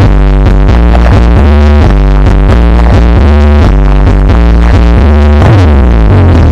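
Electronic DJ remix music blasted from a 'sound horeg' carnival sound system, very loud with a heavy, steady bass line and synthesizer melody, the recording held at the top of its range.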